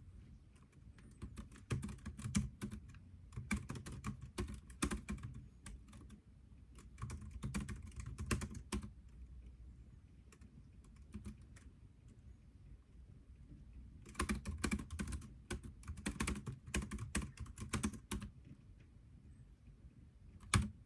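Typing on a computer keyboard in bursts of rapid keystrokes: a run of about seven seconds, a lull with a few scattered keys, then another run of about four seconds, and one sharper single keystroke near the end.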